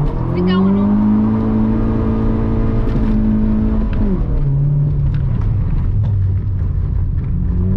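Dacia Logan's 1.6 16-valve four-cylinder engine with a de-catted custom exhaust, heard from inside the cabin under hard driving. It revs up about half a second in and holds high revs, then drops off about four seconds in and runs on at lower revs.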